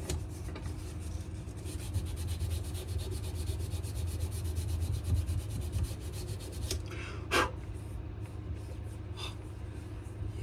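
Sandpaper rubbed back and forth by hand over a wenge-and-maple knife handle in quick, even strokes, over a low steady hum. A single louder scrape or knock comes about seven seconds in.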